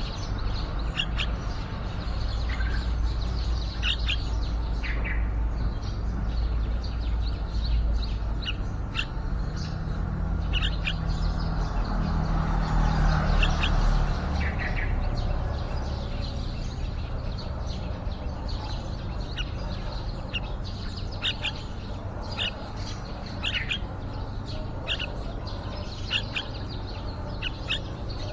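Yellow-vented bulbuls chirping: short, sharp calls repeated at irregular intervals, over a steady low background rumble that swells briefly about halfway through.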